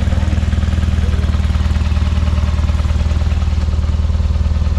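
Classic rally car's engine idling steadily at close range, an even low-pitched throb.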